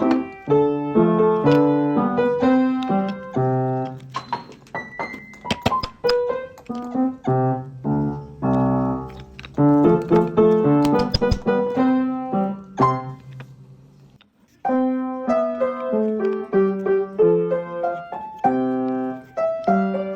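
Background piano music, a melody of plucked-sounding notes, dropping away briefly about two-thirds of the way through before picking up again.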